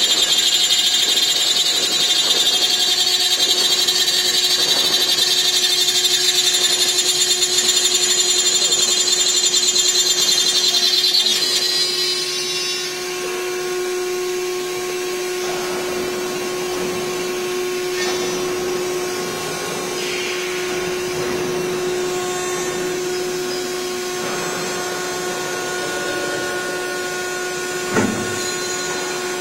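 Aluminium profile CNC drilling and milling machine working an aluminium profile: a loud, high-pitched spindle whine that drops away about eleven seconds in, leaving a steadier, lower machine hum. A single sharp knock comes near the end.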